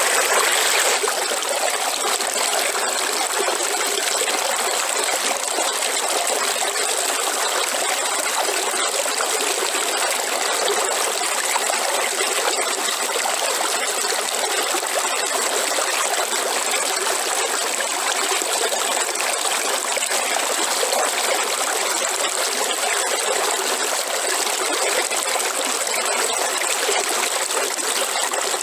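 River water flowing and trickling steadily over stones, an even rushing with no pauses.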